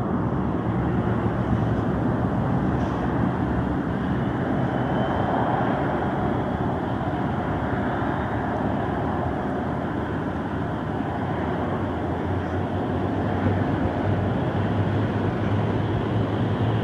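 Gulfstream G550 business jet's twin Rolls-Royce BR710 turbofans at take-off power: a steady jet rush.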